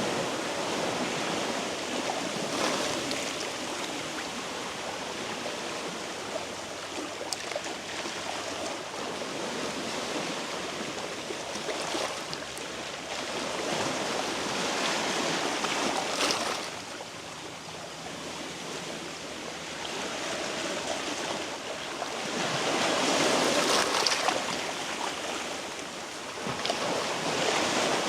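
Sea waves washing against shoreline rocks, a steady surf noise that swells and eases every several seconds.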